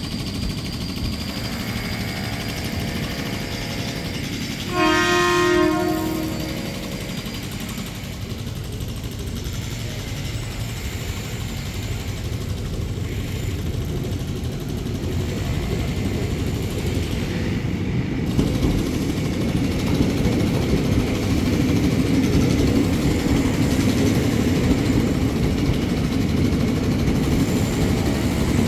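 Electric commuter train horn sounding once, a little over a second long, about five seconds in, over a steady train rumble. From about sixteen seconds the rumble of a JR 205 series electric multiple unit rolling past close by grows louder.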